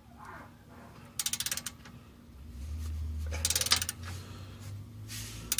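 Socket ratchet clicking in two quick runs as the clamp on a slip-fit exhaust pipe is tightened down. A low steady hum comes in about halfway.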